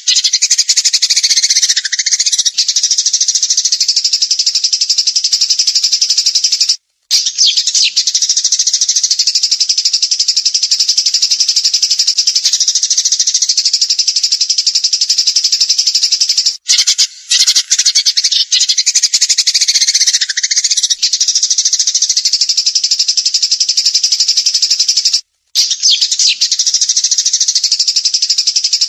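A small cage songbird singing a continuous, very rapid high-pitched trill (a 'tembakan' burst song), with brief breaks about every nine seconds where the recording loops.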